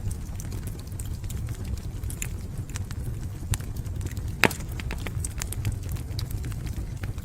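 Wood fire in a fireplace crackling, with irregular sharp pops over a steady low rumble of the flames. One pop, about four and a half seconds in, is much louder than the rest.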